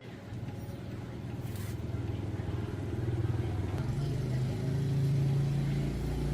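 A motor running with a low, steady hum that grows louder and steps up slightly in pitch about four seconds in.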